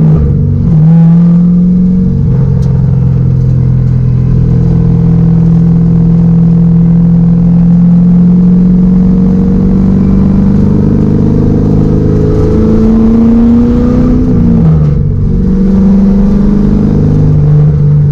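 LS V8 engine of a Nissan S13 Silvia pro drift car running hard at high revs through a drift run. Its pitch holds steady for long stretches and dips and climbs again a few times as the throttle is lifted and reapplied.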